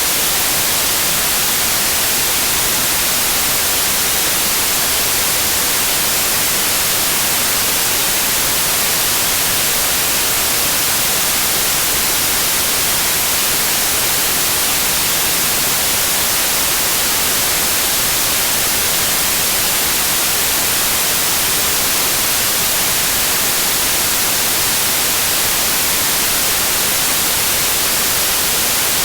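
Steady white noise: an even, unchanging hiss, brightest in the high frequencies, for sleep masking.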